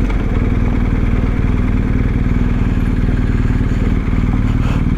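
BMW GS Adventure motorcycle engine running at a steady pace while riding, its firing pulses even, with a steady rush of noise over it.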